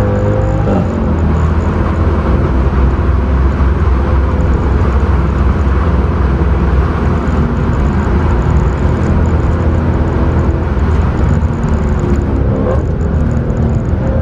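Mercedes C63 AMG's naturally aspirated 6.2-litre V8 running hard under load, heard from inside the cabin with heavy road and tyre rumble. The engine note shifts pitch briefly near the start and again near the end.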